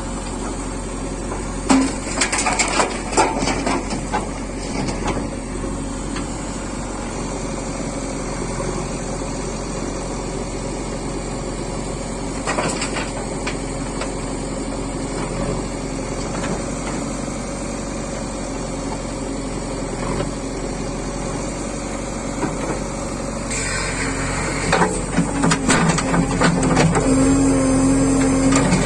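Heavy diesel machinery running steadily, with clanks and rattles a couple of seconds in, once in the middle, and again near the end.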